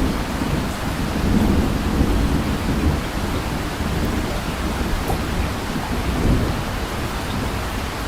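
Steady heavy rain with a low rumble underneath, as in a thunderstorm.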